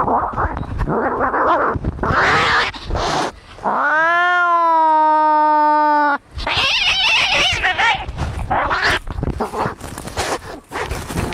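Cats fighting: harsh, ragged yowls and screeches, with one long caterwaul from about four seconds in that rises and then holds a steady pitch for about two seconds before breaking off.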